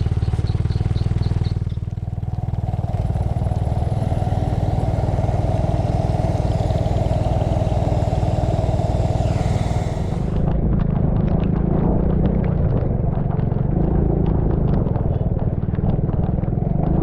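Small vehicle engine, most likely a motorcycle, running steadily under a rider's GoPro, with wind noise on the microphone. From about ten seconds in, many small scattered ticks sound over it, like raindrops striking the camera.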